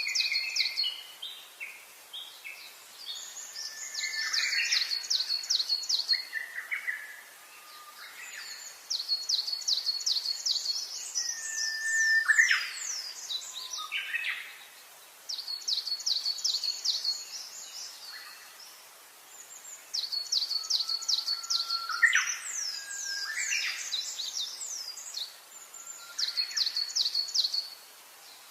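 Birds singing: one bird repeats a fast trill of short falling notes, a phrase every three to four seconds, while others give lower single whistles between the phrases.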